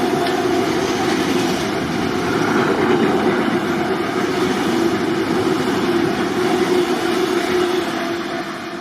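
A Rail Force One freight train rumbling past steadily, its sound starting to fade in the last second.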